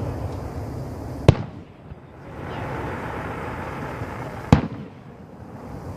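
Aerial fireworks display: two sharp shell bursts about three seconds apart.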